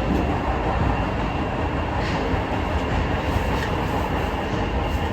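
Kita-Osaka Kyuko 9000 series electric train running through a subway tunnel, a steady rumble of wheels on rail and traction noise heard from inside the car.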